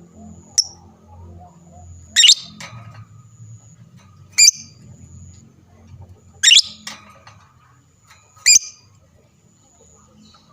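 Lovebird giving short, sharp, shrill calls, one about every two seconds: four loud ones and a fainter one near the start.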